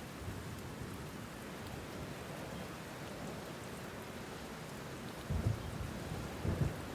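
Steady rain with two low rumbles of thunder, about five and six and a half seconds in.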